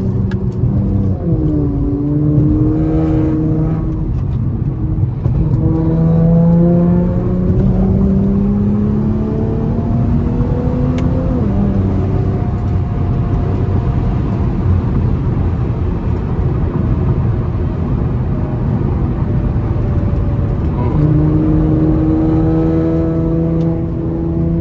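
Infiniti Q50's 3.0-litre twin-turbo V6 under acceleration on the highway. Its engine note climbs steadily for about ten seconds, then drops suddenly at a gear change and carries on at a steadier pitch, over constant road and tyre noise.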